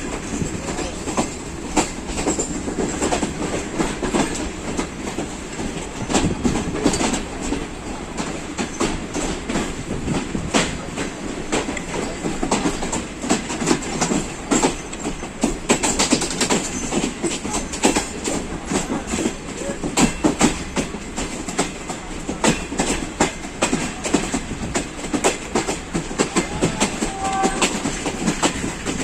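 Passenger train running on the rails: wheels clattering over rail joints, many irregular sharp clicks over a steady rumble.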